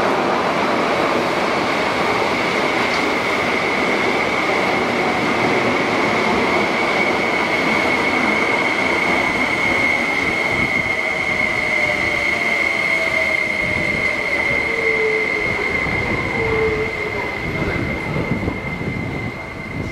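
Kowloon–Canton Through Train running through a station at speed without stopping, a dense rumble of wheels on rails with a steady high-pitched tone over it. A lower tone slides downward in the middle, and the noise drops off near the end as the last car goes by.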